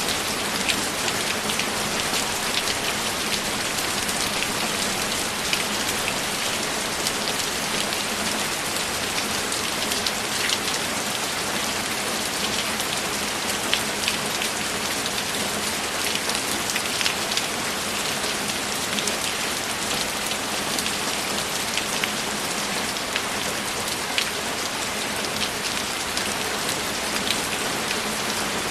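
Steady rain with many individual drops pattering and ticking on a surface.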